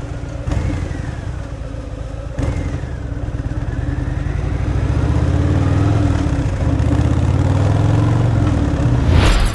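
Harley-Davidson Fat Boy's V-twin on its stock exhaust, running under way. There are two brief breaks, about half a second and two and a half seconds in, after which the engine comes back louder and pulls harder, building over the next few seconds. A sudden loud crash-like burst comes near the end.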